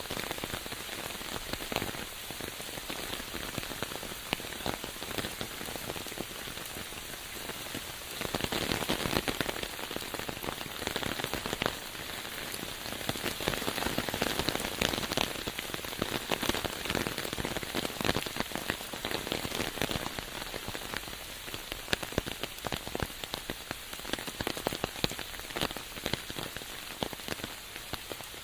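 Rain falling on surfaces, a dense hiss of many small drop strikes, growing heavier about eight seconds in and again around the middle.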